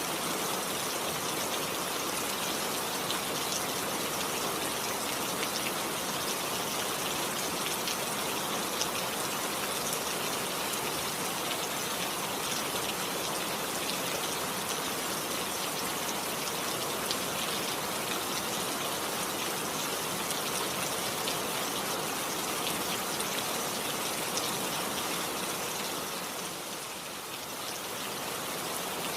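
Steady rain falling, a dense even patter of drops, dipping briefly in loudness near the end.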